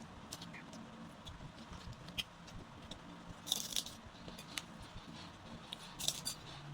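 Close-miked eating sounds from rujak tahu lontong with peanut sauce: scattered small clicks and taps, with two short crisp crunching bursts, one about halfway through and one near the end.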